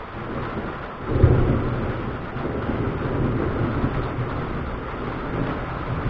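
Thunder: a low rumble that starts suddenly about a second in, loudest at its onset, then rolls on unevenly.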